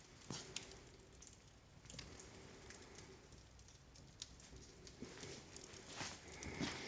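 Wood fire burning in a fireplace firebox: faint, sparse crackles and ticks, growing more frequent near the end.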